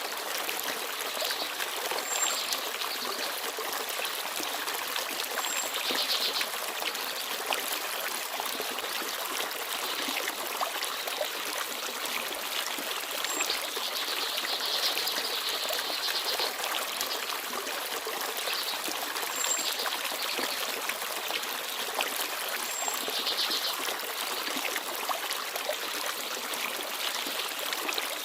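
Small forest stream babbling and trickling steadily, with brief high bird chirps every few seconds.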